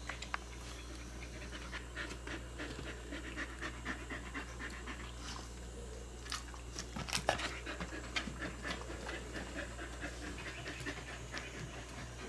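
A cat eating wet food in jelly, with irregular wet chewing, smacking and licking sounds.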